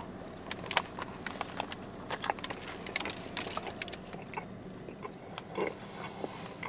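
A person biting into and chewing a hoagie on a seeded Sarcone roll, close to the microphone: irregular small clicks and crackles of the crust and wet mouth sounds.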